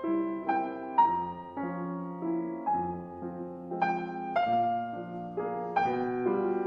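Soft background piano music, slow notes and chords struck about every half second and left to ring.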